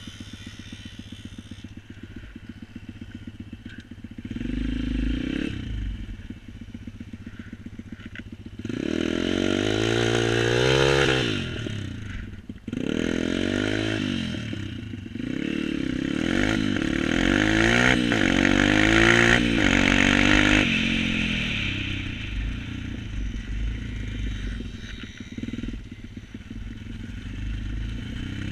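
A vehicle engine idling, then revved up and down several times, with a long high-rev stretch in the middle before it drops back to idle.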